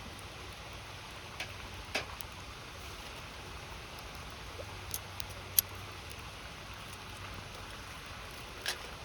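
Wood campfire crackling, a handful of sharp pops scattered over the steady rush of a river, the loudest pop about halfway through.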